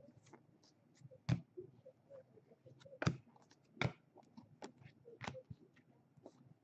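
Baseball trading cards being flipped through and set down: faint clicks and taps of card stock, about five sharper ones spread through, with softer ticks and rustles between.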